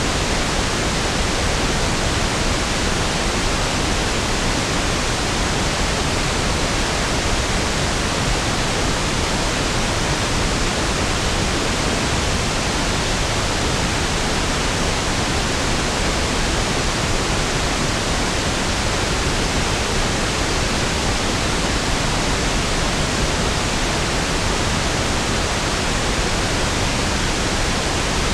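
Steady pink noise (1/f noise): an even, unbroken hiss with equal energy per octave, smoother and deeper than white noise.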